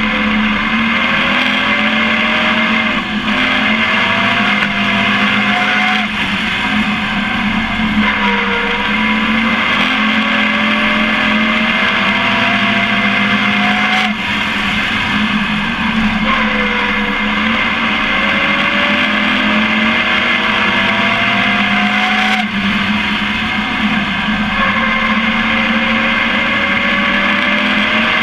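Pro Truck race engine heard onboard at racing speed. The pitch climbs in long runs as it accelerates down each straight and falls back sharply as the driver lifts for the corners, several times over. A constant drone from the truck and road lies underneath.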